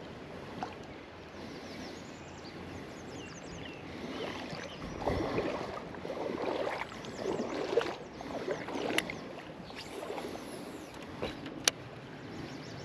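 Water sloshing and splashing in a creek in irregular swishes through the middle, with one sharp click near the end.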